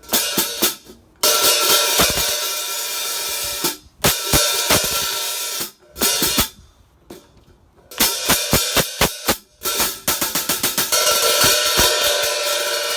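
Zildjian K Custom Hybrid 14 1/4" hi-hats played with sticks, the top cymbal cracked: runs of quick, tight chick strokes alternate with long, open washing sizzle, with short breaks between the phrases. The crack does not make them sound too bad.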